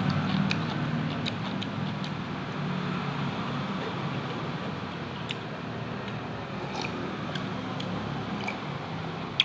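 A person chewing a mouthful of food by hand-fed mukbang eating, with scattered wet mouth clicks and smacks over a steady low hum.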